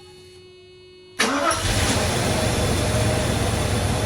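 1989 Mercedes-Benz 560SEC's 5.6-litre V8 cranking and catching about a second in, after a faint steady hum, then running steadily. It starts first try now that the corroded fuel-pump ground in the trunk has been cleaned.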